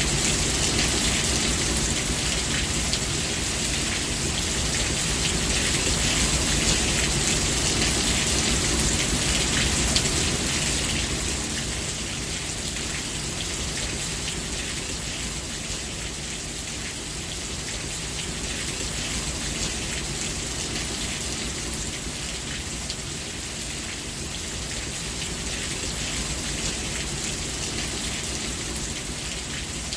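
Steady heavy rain falling on a surface, a dense hiss with fine drop patter; it eases slightly about eleven seconds in.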